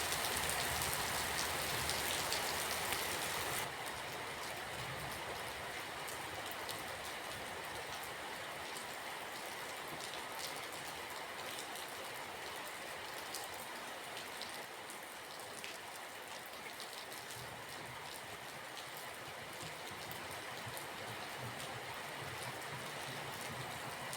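Steady rainfall, a dense hiss with individual drops ticking through it. About three and a half seconds in it abruptly turns quieter and less bright, then carries on steadily.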